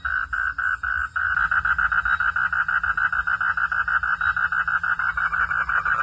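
Frogs calling in a pulsing chorus, a steady run of rapid call notes. About five pulses a second at first, then a little past a second in it switches abruptly to a faster, denser pulsing of about nine a second.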